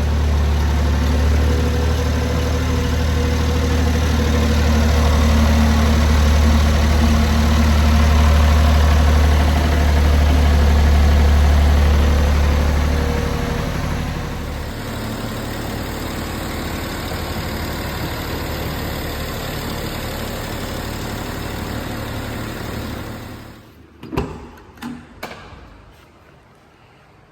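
1997 Honda Acty truck's small three-cylinder engine running, louder and deeper for the first half, then settling to a quieter idle about halfway through. It stops near the end, followed by a few sharp clicks and knocks.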